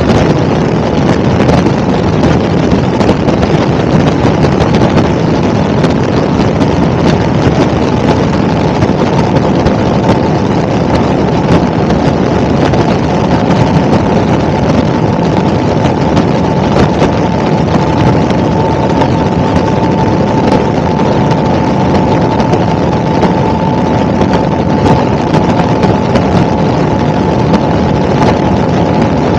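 Helicopter in flight: loud, steady engine and rotor noise, with a faint steady whine.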